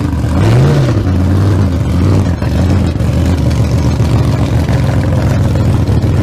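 Loud engine running, with a quick rev that rises and falls under a second in, then running steadily.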